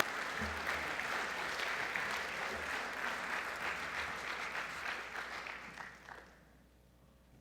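Audience applauding in a large gymnasium, fading out about six seconds in.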